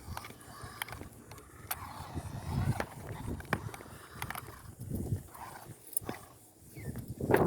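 Toy-grade RC car crawling over rough ground: irregular crunching and scattered sharp clicks, with bursts of low rumbling.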